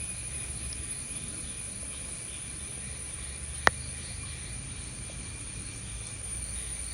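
Steady high-pitched insect chorus over a low outdoor hiss, with a single sharp click about halfway through.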